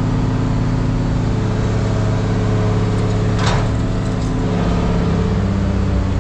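A vehicle engine running steadily at idle, its note shifting slightly about four and a half seconds in, with a brief scraping sweep about three and a half seconds in.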